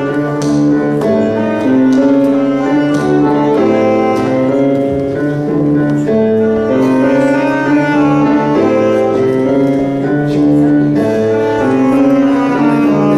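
Jazz band playing an instrumental passage, held chords that change every second or so.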